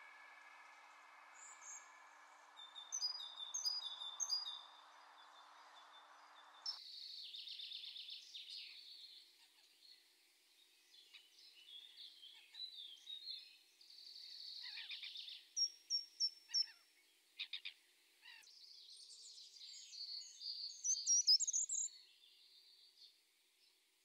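Wild birds calling and singing: a mix of short chirps, high whistled notes and quick trills. Steady background noise cuts out abruptly about seven seconds in.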